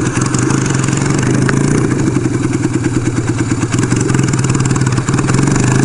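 1975 Kawasaki KZ400's parallel-twin engine running at a steady pitch with rapid even firing pulses while the motorcycle is ridden.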